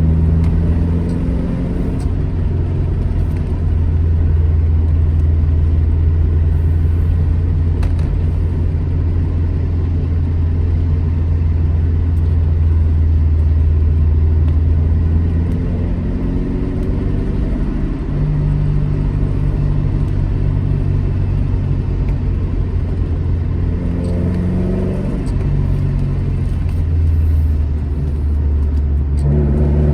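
Alfa Romeo GT Junior's twin-cam inline-four running on the road, a steady low engine note whose pitch shifts a few times, around the middle and again near the end.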